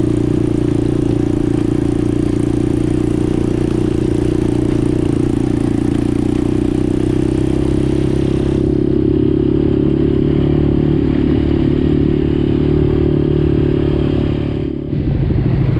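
ATV engine running steadily under way on a dirt trail, with a brief dip and a change in the engine note near the end.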